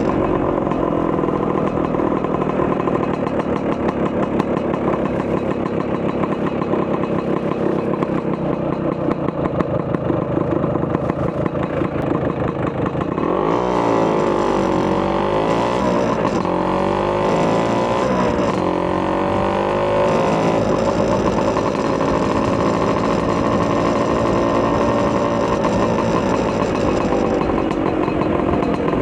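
Vespa PX200 scooter's two-stroke single-cylinder engine, bored to 210cc with a Polini kit, running through a Malossi expansion-chamber exhaust while riding. It runs fairly steadily at first, then revs up and down several times from about halfway through, and settles back to steadier running near the end.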